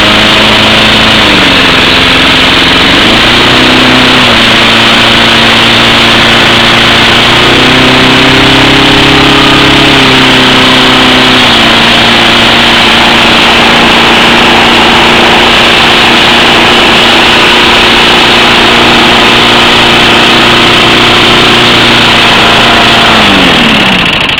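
Propane-fuelled walk-behind lawn mower engine running loud and close, its speed stepping up and down a few times. Near the end it slows down.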